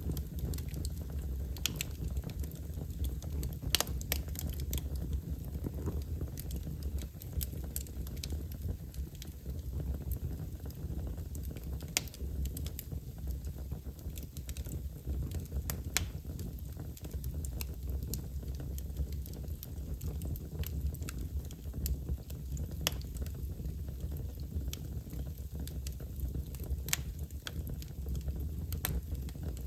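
Wood fire crackling in a fireplace: irregular sharp pops and snaps over a steady low rumble, with one louder pop about four seconds in.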